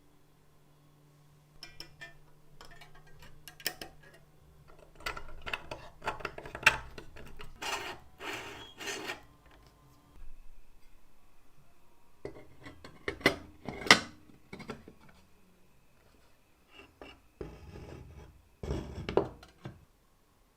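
Hard metal parts clinking, knocking and scraping as they are handled and rubbed, in irregular clusters of sharp clicks and short scrapes.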